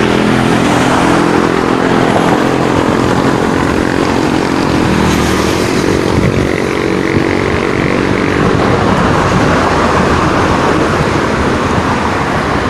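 A motor vehicle engine running steadily close by, giving way after about seven seconds to a steady rushing road noise.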